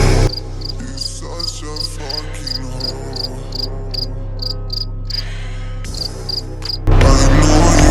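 Crickets chirping: short, high chirps repeating evenly about three times a second over a low steady hum.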